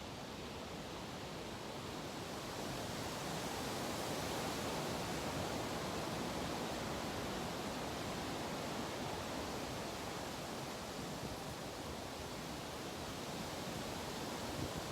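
Steady rushing noise with no speech, swelling slightly a few seconds in and then easing a little.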